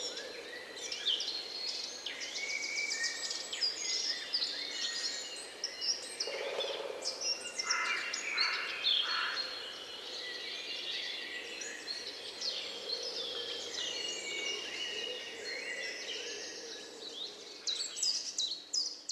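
A dawn-chorus-like mix of many songbirds singing and chirping at once, with quick overlapping whistles and trills. A low hooting call sounds briefly about six seconds in.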